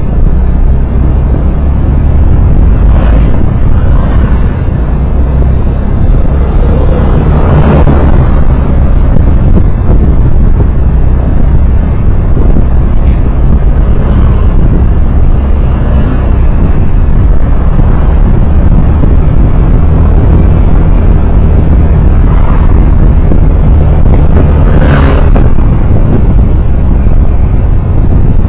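Loud, steady road and wind rumble of a moving vehicle on the road, with a few brief louder swells, the strongest about 25 seconds in.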